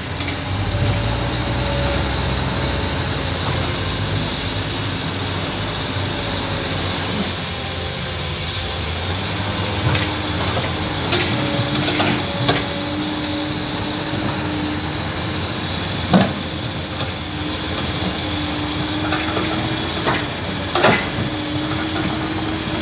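Heavy vehicle engine running steadily with a low rumble and a held, slightly wavering hum, broken by several sharp knocks.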